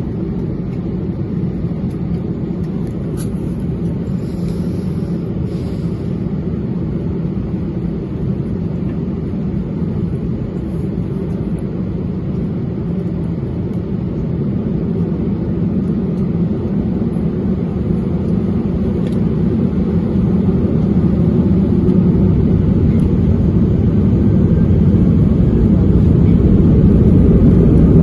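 Airbus A321 cabin noise heard from inside the cabin: a steady low rumble of the jet engines and the aircraft rolling, growing gradually louder through the second half as it heads into its takeoff.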